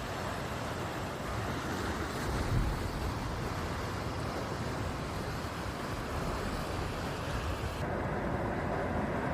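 Wind rumbling on the microphone over the steady wash of sea surf on a beach. The hiss loses its top end about eight seconds in.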